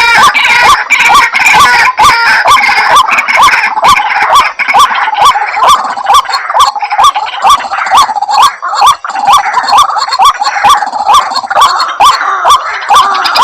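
White-breasted waterhen calls from a hunter's lure recording: a loud, repeated rough 'kruak' note, about two a second, with many sharp clicks running through it.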